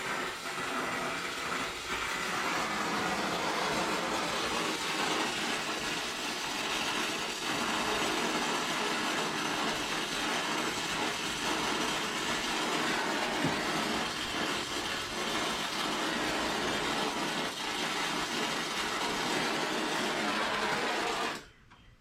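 Steady mechanical running noise, a loud even hiss-like din with a low hum, that cuts off abruptly about a second before the end.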